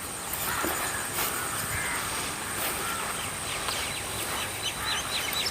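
Birds calling: a few harsh calls in the first couple of seconds, then a quick run of short high chirps near the end, over a thin steady high tone.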